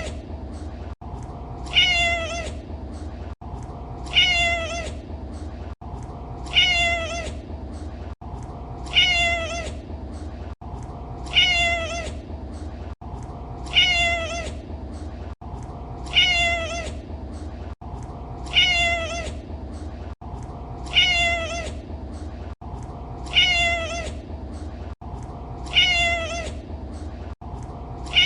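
Domestic cat meowing: the same short meow, slightly falling in pitch, repeated over and over about every two and a half seconds as a loop, over a steady low rumble.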